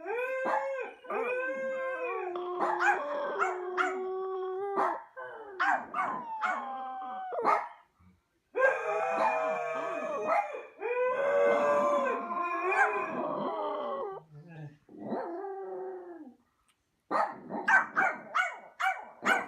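An animal howling in long, wavering pitched calls with short breaks between them, ending in a quick run of short, sharp yips.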